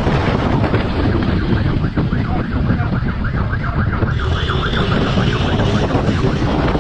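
Heavy wind rushing over the microphone at speed, with a siren yelping in a fast warble for a couple of seconds partway through.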